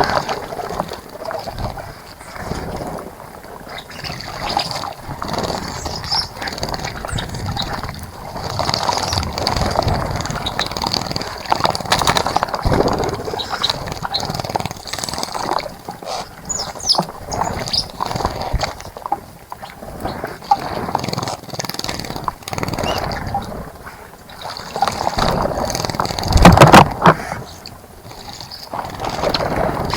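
Water splashing and gurgling in a garden bird bath as birds bathe, in irregular bursts, with a few short high bird chirps; the loudest splash comes near the end.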